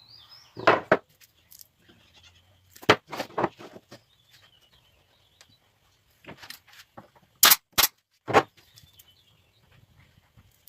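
Wooden boards being handled and set down in a workshop: a series of short, sharp knocks and clacks in small clusters, the loudest a quick pair near the middle.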